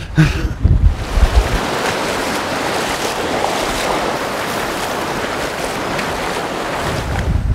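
Steady rush of water as boots wade through a fast-flowing river, with low buffeting from wind on the microphone for the first second or so.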